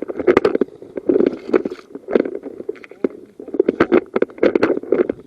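Rustling and brushing close to the microphone in irregular bursts about once a second, with sharp clicks and knocks among them, like a person moving on foot through grass or undergrowth with gear rubbing.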